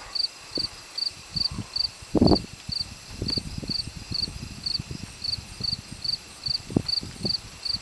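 Crickets chirping steadily, short high chirps about two and a half a second, with scattered low thumps on the microphone, the loudest about two seconds in.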